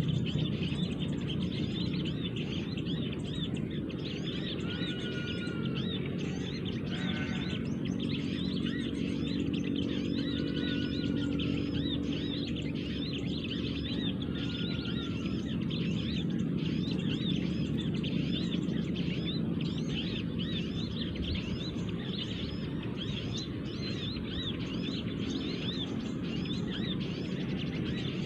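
A dense chorus of small birds chirping quickly and without pause, with a few separate short whistled notes now and then: a 'noisy small birds' call recording (MP3) played as a lure for bird-liming, mixed with wild birds answering. A steady low background rumble lies under it.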